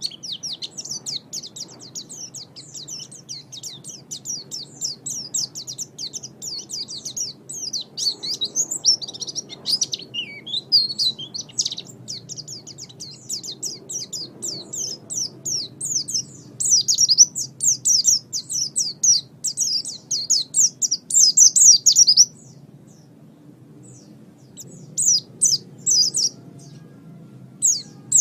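A small songbird singing a fast, continuous stream of high, sharply falling chirps. The song breaks off for a couple of seconds about 22 seconds in, then starts again.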